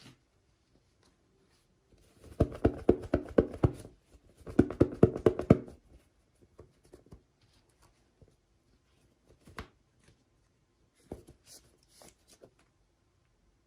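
Hands handling doll packaging: two bursts of rapid scraping, rattling strokes, each about a second and a half long, then scattered light clicks and taps.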